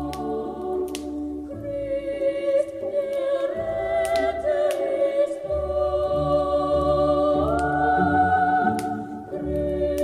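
Choir singing a slow Christmas song in long, held notes, with scattered sharp crackles from a wood fire.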